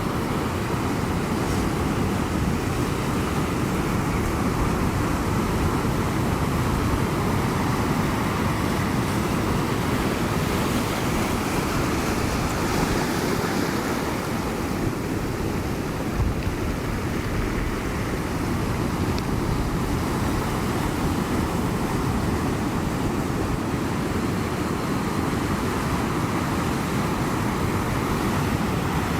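Ocean surf: a steady, deep rush of waves breaking and washing ashore, swelling slightly around the middle.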